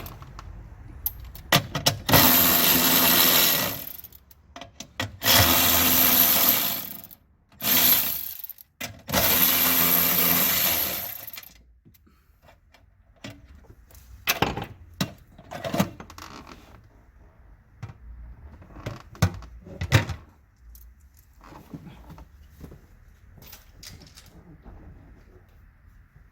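A power tool runs in four bursts of one to two and a half seconds each. Then come scattered metallic clicks and knocks of tools and parts being handled.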